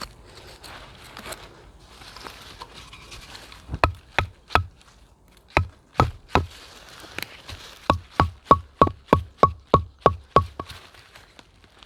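Repeated sharp knocking strikes with a short metallic ring, starting about four seconds in, irregular at first and then settling into a steady run of about three blows a second before stopping near the end.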